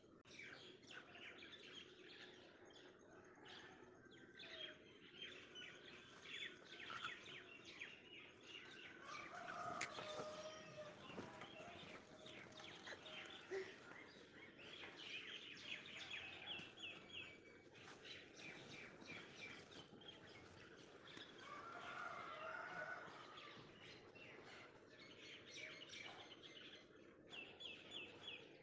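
Faint outdoor birdsong: small birds chirping again and again, with a couple of lower calls about ten seconds in and again a little past twenty seconds.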